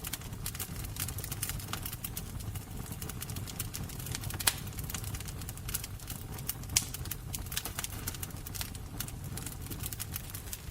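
Wood fire burning, with a steady low rumble and irregular crackles, two louder pops about four and a half and just under seven seconds in.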